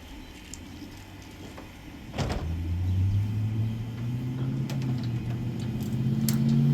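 Electric chainsaw switched on with a click about two seconds in, its motor then running with a steady low hum that steps up slightly in pitch toward the end.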